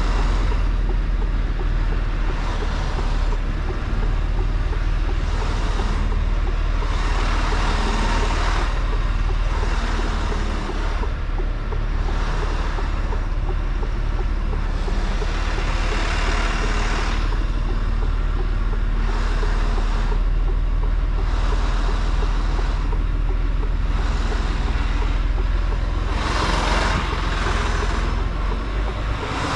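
Mercedes-Benz Actros L truck driving, its diesel engine running with a steady low rumble, with road noise swelling and fading every few seconds.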